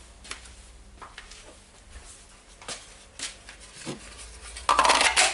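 Light clicks and knocks of a plastic radio and its mains adapter being handled on a workbench, with a louder scraping rustle near the end.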